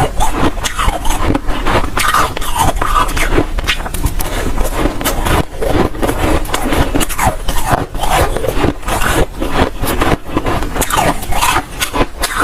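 Close-up biting and chewing of dry, powdery freezer frost ice: a dense, irregular crunching and crackling that keeps going without a break.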